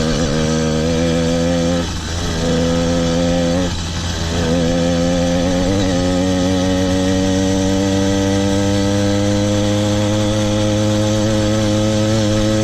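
Motorized bicycle's small engine running steadily under throttle. The note drops briefly twice, about two and four seconds in, then holds even.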